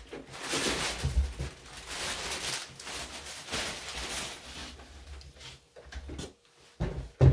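Sewing-machine packaging being handled: plastic and foam packing rustling and scraping in uneven bursts, then two thumps near the end, the second the loudest.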